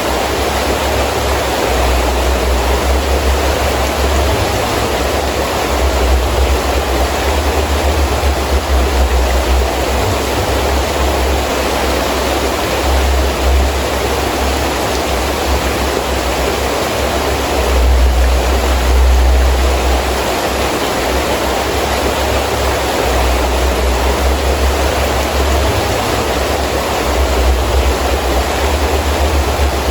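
Heavy rain falling steadily with gusting wind, the low rumble rising and falling from gust to gust, a little stronger about two-thirds of the way in.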